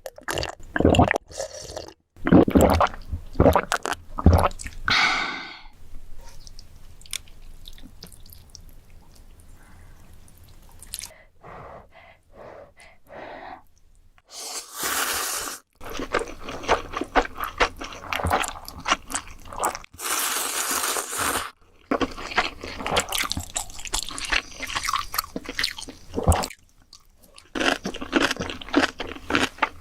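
Close-miked eating of ramen noodles: wet chewing and smacking mouth sounds, with two longer slurps about fifteen and twenty seconds in.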